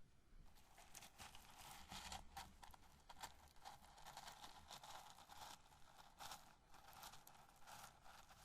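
Grilled corn kernels being rubbed and handled by fingers close to the microphone, giving a quiet, continuous dry crackling rustle with short pauses.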